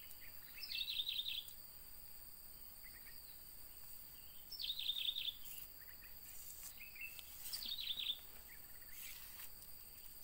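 A bird singing the same short phrase three times, about every three seconds: a quick falling note, then a fast run of high notes. Under it runs a steady high-pitched insect drone.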